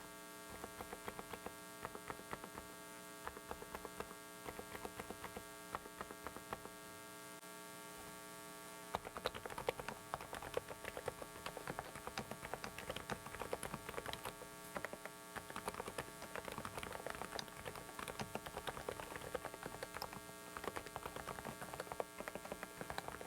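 Typing on a Dareu mechanical keyboard: short key clicks, scattered at first, then fast, continuous typing from about nine seconds in. Under it runs a steady electrical hum from a faulty microphone.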